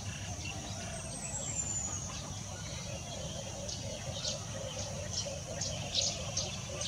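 African grey parrot giving one high falling whistle, then a quick run of short, sharp chirps and clicks in the second half, over a steady low rumble.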